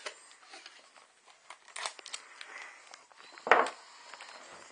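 Crinkling and rustling with scattered light clicks, and one louder rustle a little past the middle.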